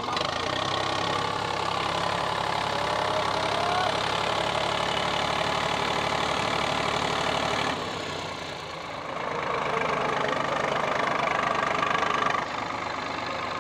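Eicher 485 tractor's three-cylinder diesel engine running steadily. It dips about eight seconds in, picks up again a second or so later, then falls off near the end.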